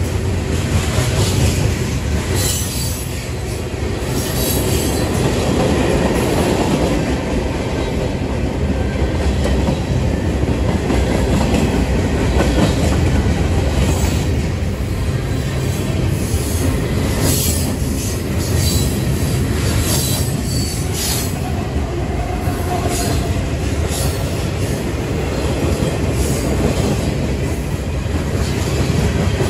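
Manifest freight train rolling past at close range: a steady rumble of freight cars with the clatter of steel wheels over the rail joints.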